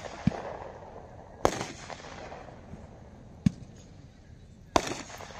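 Brothers 'Sweet Spot' 30-shot 500-gram consumer fireworks cake firing aerial shots: four sharp bangs spaced one to two seconds apart, each trailed by a brief rumble, the second the loudest.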